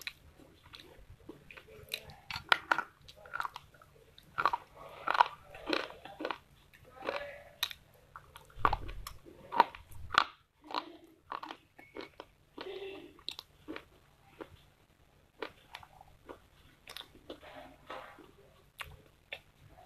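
A person biting and chewing slate pencil and dry baked clay close to the microphone: irregular sharp crunches, sometimes several a second, with chewing in between.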